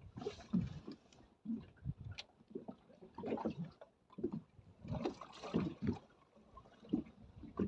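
Choppy water sloshing and slapping irregularly against the hull of a small boat drifting with its engine off.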